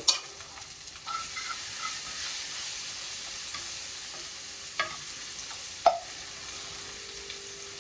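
Baked beans and saltfish sizzling in a hot pan, a steady hiss, with two short knocks a little past halfway.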